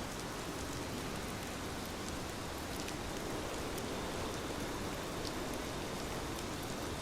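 Steady rainfall, a dense even hiss of rain with scattered individual drops ticking on a surface.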